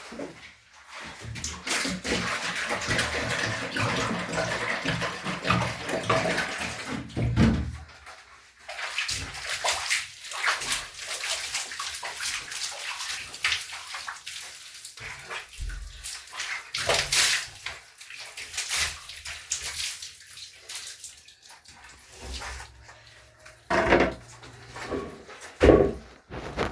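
Water splashing and sloshing during washing with a wet cloth: a dense run of splashing for the first several seconds, then scattered splashes and knocks, with two louder ones near the end.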